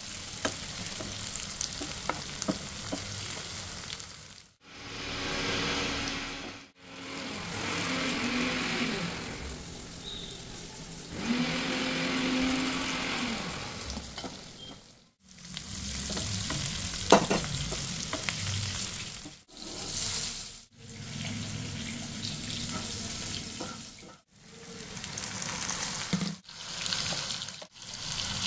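Onion, potato and tomato sizzling in hot oil in a frying pan, with stirring, heard as a steady hiss in several short stretches that break off suddenly. A single sharp tap about seventeen seconds in.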